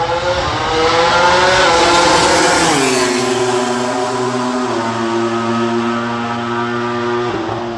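MotoGP racing motorcycle's 1000 cc four-cylinder engine running at high revs. Its pitch climbs for about two seconds, drops sharply about three seconds in, then holds a steady lower note.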